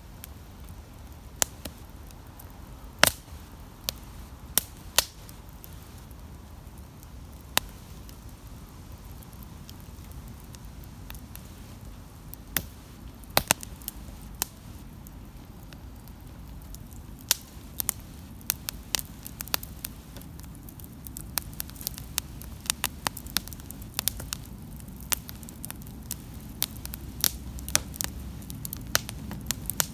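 Wood campfire crackling with sharp pops over a low steady rumble. The pops are sparse at first and come much more often in the second half.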